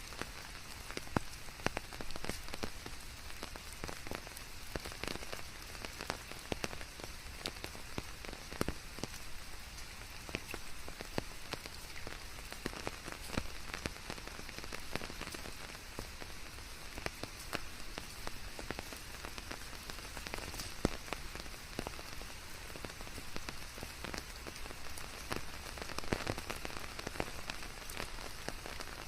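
Steady rain falling, a continuous hiss with many individual drops pattering and ticking on surfaces.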